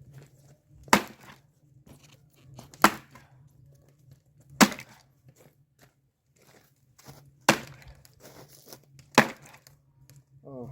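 Axe chopping firewood into small pieces: five sharp blows on the wood, roughly two seconds apart.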